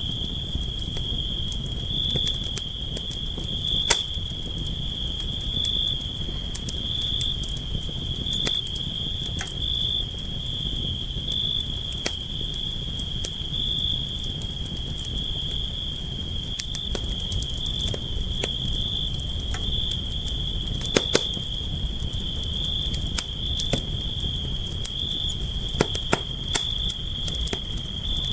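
Campfire crackling: irregular sharp pops and snaps over a low rumble of burning, with a few louder pops around 21 and 26 seconds in. A steady high-pitched insect trill runs beneath it.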